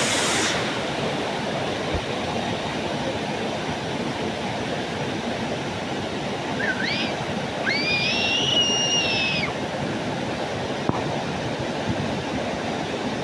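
Karura waterfall's steady rush of falling water. About halfway through, two high arching calls sound over it, a short one and then a longer one.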